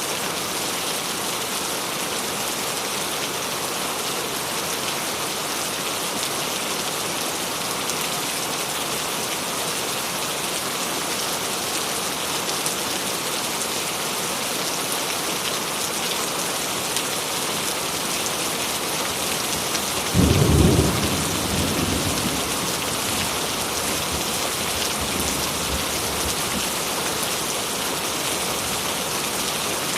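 Steady rain falling, an even hiss throughout. About two-thirds of the way through, a single loud thunderclap breaks in and rumbles away over a few seconds.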